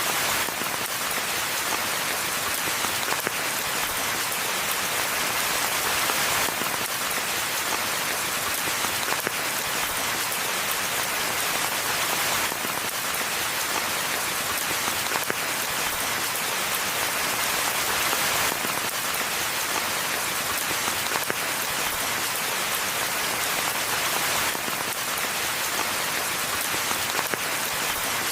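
Steady rainfall, a dense even patter of drops on the ground and leaves with no thunder.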